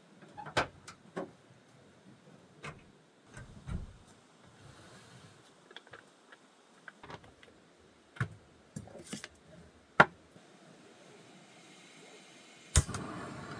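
Scattered light clicks and knocks of things being handled, with one sharp click about two thirds of the way in. Near the end a louder click and then a steady hiss begins.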